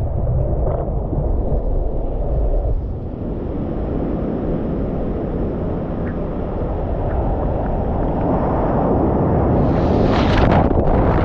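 Wind buffeting the microphone, a dense, uneven rumble, with a brighter, hissier surge near the end.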